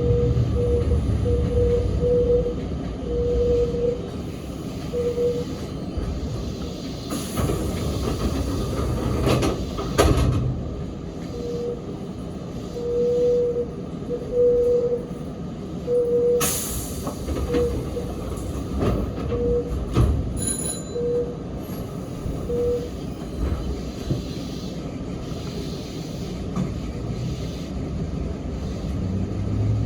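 Interior sound of a Sanyo Electric Railway 3050 series train running between stations: a steady rumble of wheels on rail, with a faint tone that comes and goes and a few sharp clicks.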